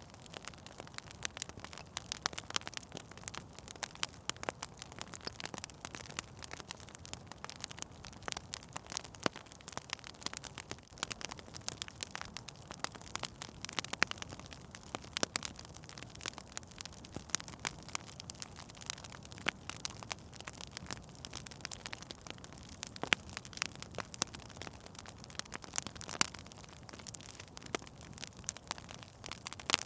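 Wood fire burning in a fireplace, crackling and popping in dense, irregular snaps over a soft steady hiss.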